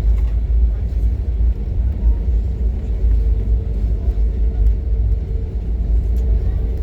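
Steady low rumble in the cabin of an airliner rolling on the ground after landing, with a faint steady engine hum above it.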